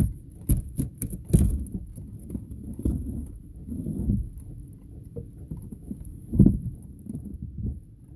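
Close handling noise: a few sharp clicks and taps in the first second and a half, then rustling and duller thumps around four and six and a half seconds, over a low steady rumble.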